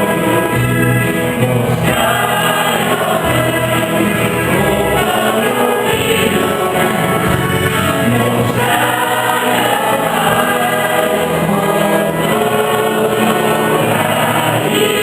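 Church choir singing a hymn with instrumental accompaniment.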